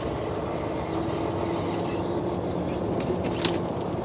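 Steady engine and road drone heard from inside a moving truck's cab, with a faint steady hum and two or three light clicks a little past the middle.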